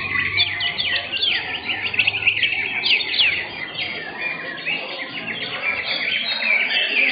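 Caged greater green leafbirds (cucak hijau) singing in competition: a dense, unbroken stream of rapid, overlapping chirps, whistles and trills.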